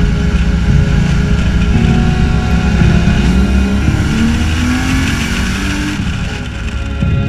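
Ford Falcon 4.0-litre straight-six in a BMW E21 running under load on the road, its note rising as the car accelerates, with wind and tyre noise.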